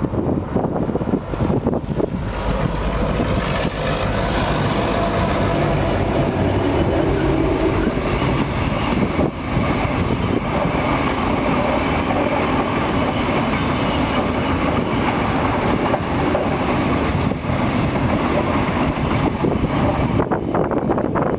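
Narrow-gauge diesel-hauled cattle train passing close by on a curve: the locomotive goes past, then a steady rumble and clatter of livestock wagons rolling by.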